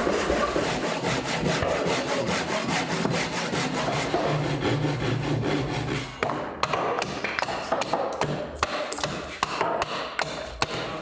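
A hand tool shaving and scraping green wood. The strokes run together in a steady rasping scrape for about six seconds, then turn into a string of short, sharp strokes and knocks.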